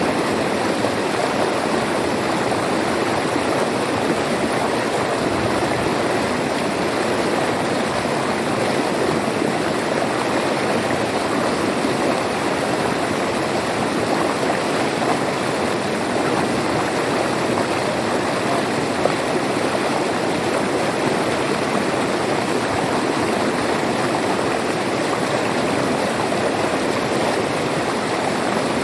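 River water flowing over rocks, a steady rushing and burbling without pause.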